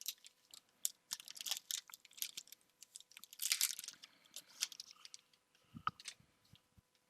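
Pokémon trading cards and booster-pack wrappers being handled: a run of small clicks and crinkles, with a longer rustle about three and a half seconds in.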